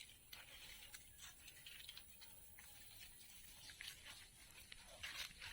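Near silence, with faint scattered ticks and rustles and a slightly louder rustle near the end.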